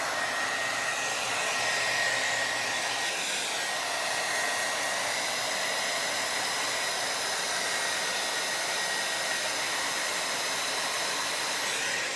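Electric hair dryer running steadily: an even rushing blow with a thin high whine.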